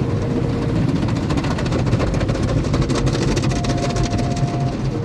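Automatic car wash machinery running, heard from inside the car: a steady rumble with a dense crackle of many small hits on the body and faint steady whines that come and go.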